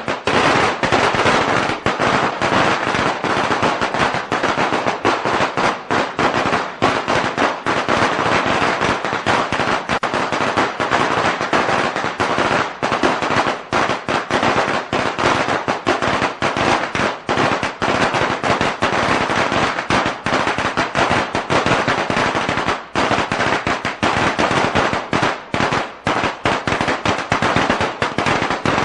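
A string of firecrackers going off in a rapid, unbroken crackle of sharp bangs.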